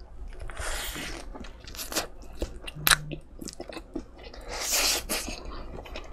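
A person biting into a Lotteria Military Burger and chewing it, with many small wet mouth clicks and two short swells of noise, about a second in and about five seconds in.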